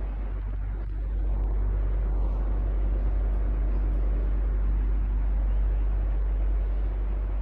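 Electric fan running steadily: a deep hum under an even rush of air, growing slightly louder about a second in.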